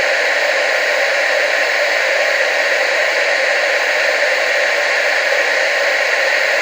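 Television static: a steady, even hiss with no breaks or changes, mostly mid and high in pitch with almost no low rumble.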